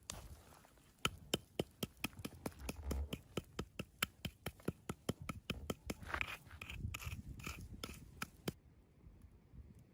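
A quick, irregular run of sharp clicks or snaps, about four a second, that stops about a second and a half before the end.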